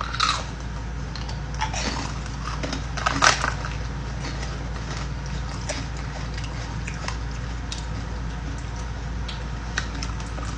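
Freeze-dried candy being bitten and crunched, with a louder crunch about three seconds in and faint clicks and rustles over a steady low hum.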